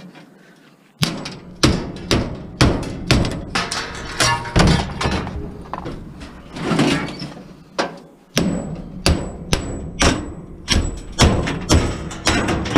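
Irregular series of hard knocks on metal, about one or two a second with a brief pause partway through, as a part is hammered and knocked loose from a scrapped appliance.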